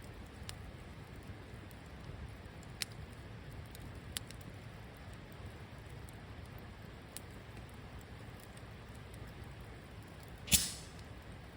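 Wood campfire burning: a low steady rumble with a few scattered small crackles, and one loud sharp pop near the end.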